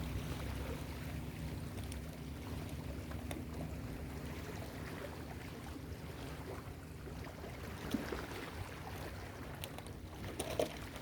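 Ocean surf washing on a beach as a steady low rumble, with wind on the microphone. A few short clicks near the end.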